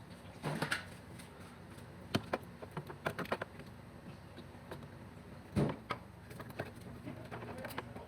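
Irregular clicks and knocks of tools and parts being handled during engine work, with the heaviest knock about five and a half seconds in.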